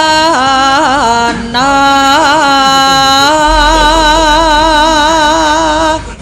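A sinden, a Javanese female singer, sings a solo melodic line of long held notes with wide vibrato and quick ornamental turns between them. The voice stops suddenly near the end.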